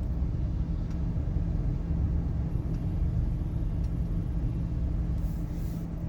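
Steady low rumble of a car driving, heard from inside the taxi's cabin: road and engine noise.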